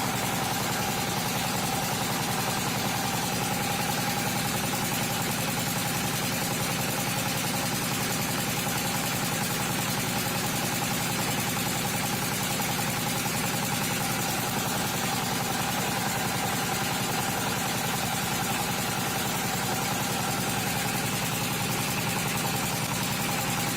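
An engine idling steadily, with a fast, even beat.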